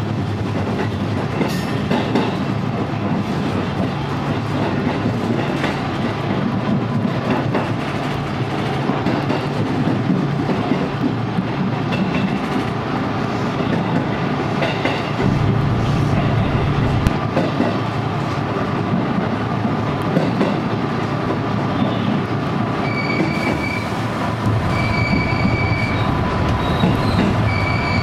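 Electric commuter train heard from on board as it runs into a station: a steady rumble with wheel clatter over the points. Wheel squeal comes in, and intermittent high squealing tones sound in the last few seconds as it slows.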